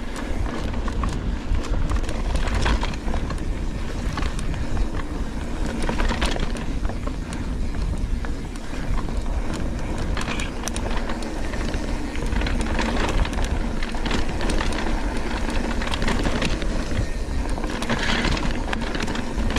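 Mountain bike riding fast along a dirt trail: a steady rushing noise, with frequent rattles and clicks from the bike over rough ground.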